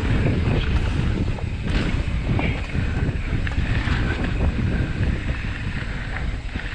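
Wind buffeting the microphone and mountain bike tyres rumbling over rough rock at speed, with scattered knocks and rattles from the bike.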